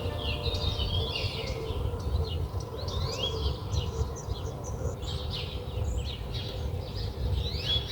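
Songbirds chirping and twittering: many short, quick, gliding calls, over a steady low rumble.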